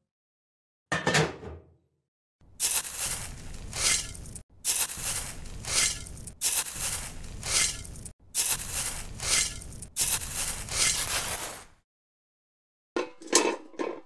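A small metal spoon scooping and scraping through dry gravel and cement powder, a steady run of gritty scraping strokes less than a second apart, with a few abrupt breaks. A few sharp metallic clinks come near the end.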